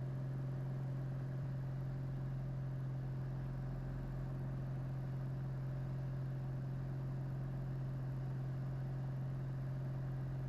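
Single-engine Piper's piston engine and propeller droning steadily at climb power, heard inside the cabin as one even low hum.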